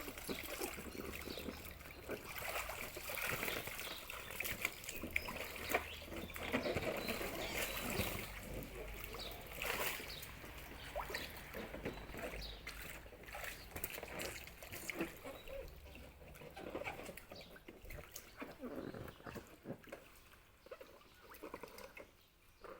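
Water splashing and trickling in a small pool, in light, irregular splashes and drips as kittens play in it.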